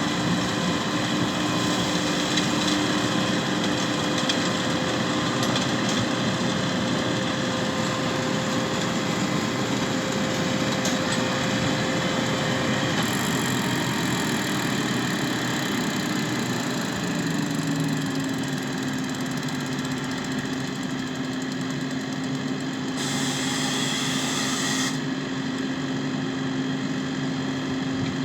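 Tractor engine and beet-harvesting machinery running steadily, a dense continuous mechanical drone. The engine's pitch shifts slightly about two-thirds of the way through, and there is a short extra rush of noise a little later.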